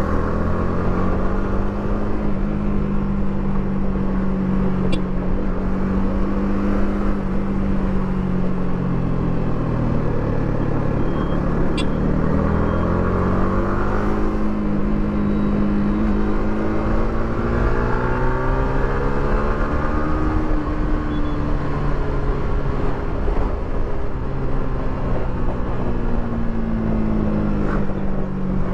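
Yamaha R15 V3's single-cylinder engine through its stock exhaust, under way on the road: the engine note rises and falls with the throttle and gear changes, dropping twice and climbing again.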